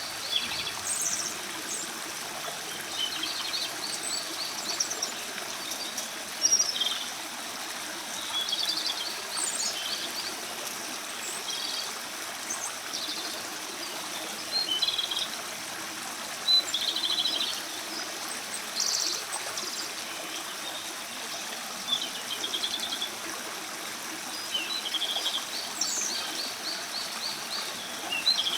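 Japanese robin singing: short phrases repeated every one to three seconds, each starting with a high note and several running into a rapid rattling trill.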